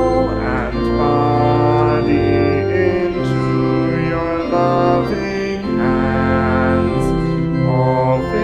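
Church organ playing a hymn in sustained chords that change about once a second.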